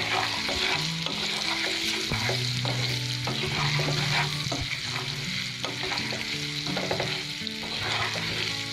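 Boiled amla (Indian gooseberry) pieces sizzling in hot spiced mustard oil in a steel kadai while being stirred, with a steady hiss and the spatula scraping the pan again and again.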